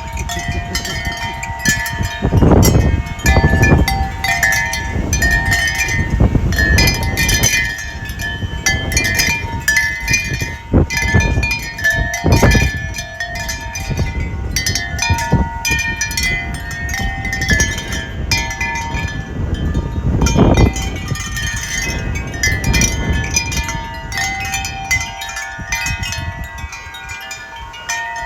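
Wind chimes ringing continuously in gusty wind, many overlapping notes at fixed pitches. Wind buffets the microphone in low rumbling gusts, loudest a few seconds in and again near the middle.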